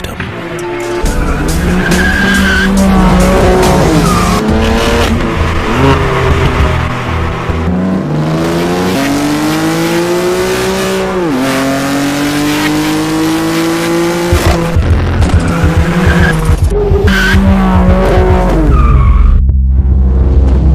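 BMW M4's twin-turbo straight-six running hard through an Akrapovic exhaust, revving up and down as the car is driven, the pitch climbing steadily and then dropping sharply at a gear change about eleven seconds in before climbing again.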